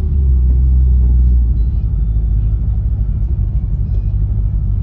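Low, steady rumble of a car's engine and tyres heard from inside the cabin while driving slowly.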